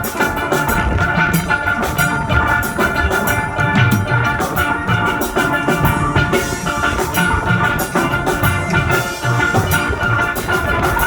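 Steel band music: steel pans playing a melody over a steady drum-kit beat.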